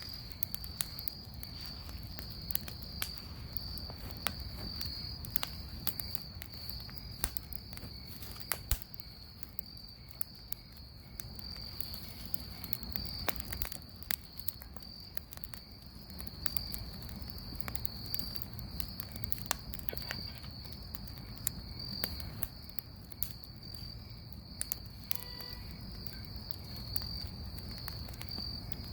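Bonfire crackling with frequent sharp pops and a low steady rumble, over the continuous chirring of crickets.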